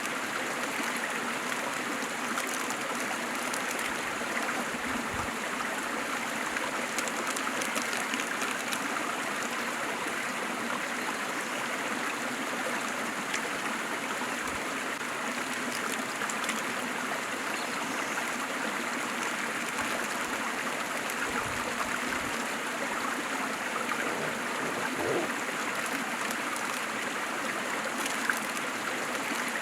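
Waterfall with water rushing and splashing in a steady, unbroken flow.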